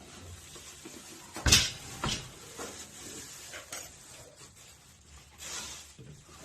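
Handling noise from a large air fryer toaster oven being turned on a countertop: a sharp knock about one and a half seconds in, a second knock soon after, and light clicks and scrapes between them.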